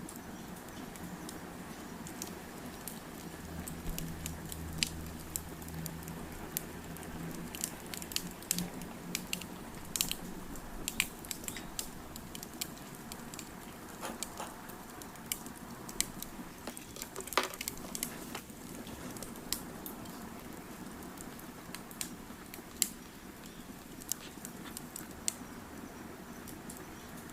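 Campfire crackling, with irregular sharp pops and snaps over a steady soft hiss. A low hum sounds under it for several seconds near the start.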